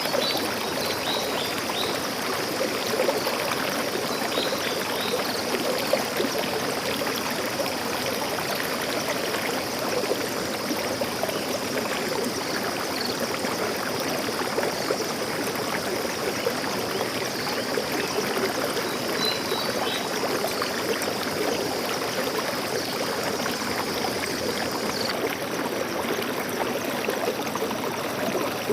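Forest stream flowing steadily, a continuous rush and babble of water, with a few faint high bird chirps now and then.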